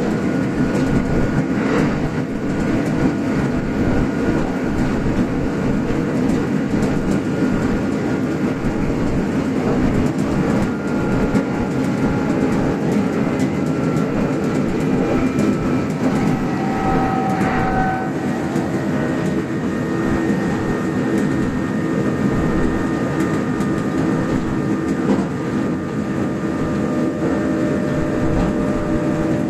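Kintetsu express train running, heard from inside the leading car: a steady rumble of wheels on rail with some clickety-clack. Faint whining tones shift in pitch partway through.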